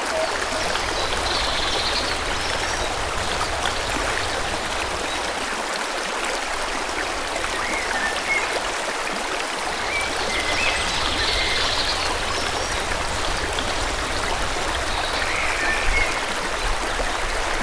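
Stream water rushing and babbling steadily, with a few faint, short bird chirps at intervals over it.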